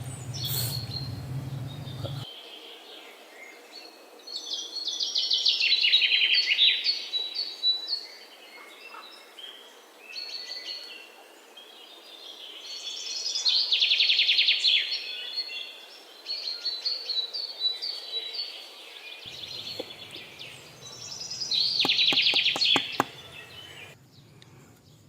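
Small birds chirping and twittering in several loud bouts, with quieter calls between them. A few sharp clicks come near the end.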